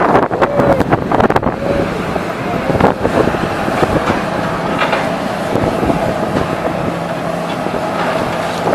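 A diesel engine running steadily under wind noise on the microphone, with a burst of clattering knocks in the first second and a half.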